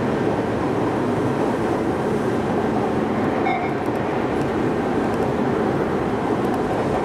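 Tobu Railway express train running at speed, heard from inside the carriage: the steady running noise of wheels on the rails and the train's running gear.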